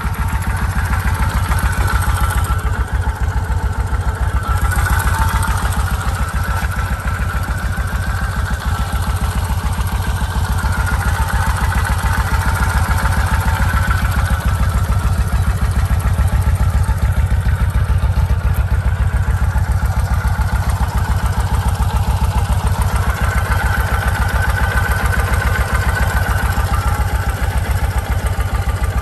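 A 1987 Kawasaki Vulcan 1500's water-cooled four-stroke V-twin idling steadily with an even exhaust beat. The engine is in good running order.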